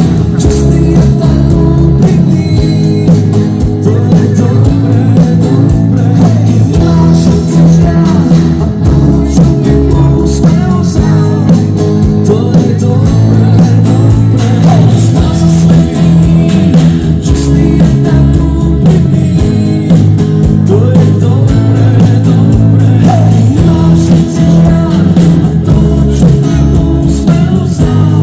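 Rock band playing live with electric guitars, bass and drums, loud and steady.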